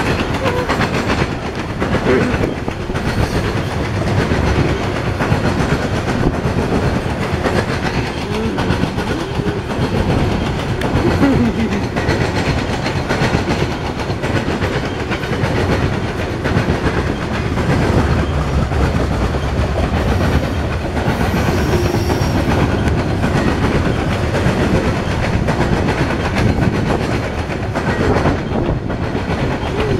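Freight train of coal gondola cars rolling past, a loud steady rumble with the clickety-clack of steel wheels over the rail joints.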